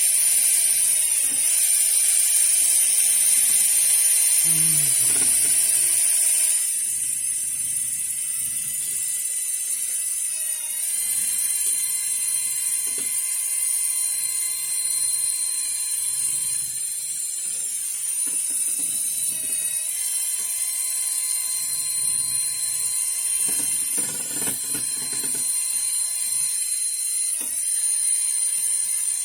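Paint sprayer running steadily: a motor whine with a loud high hiss of air and paint spray. The hiss eases about six and a half seconds in, and the whine dips briefly a few times.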